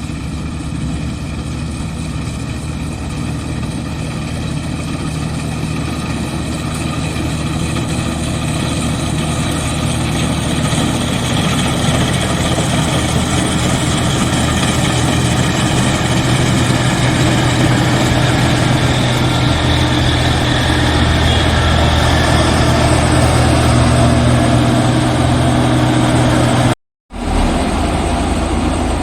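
Rice combine harvester running steadily, its engine and machinery giving a dense hum with several steady whining tones, growing louder over most of the stretch. The sound cuts out briefly near the end, then resumes.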